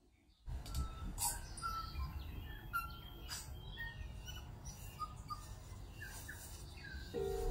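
Small birds chirping and calling, short repeated notes over a steady low rumble of outdoor air. Music comes in just before the end.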